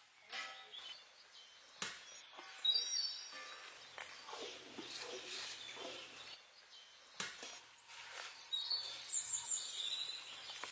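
Birds chirping in short high calls, with outdoor background noise and a few sharp knocks.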